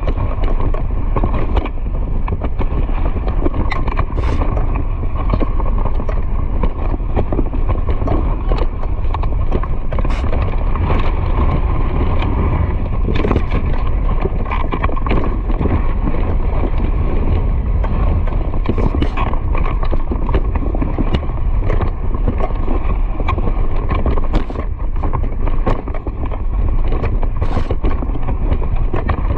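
Continuous rapid footfalls of a running animal over a steady low rumble of wind buffeting the microphone, typical of a camera carried along at race speed.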